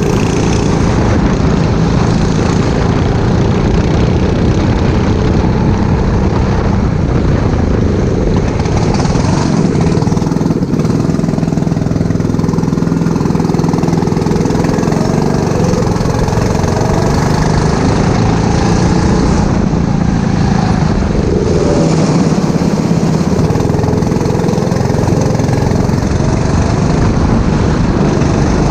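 Four-stroke racing kart engine running hard and continuously, its pitch rising and falling as the throttle opens and closes through the corners.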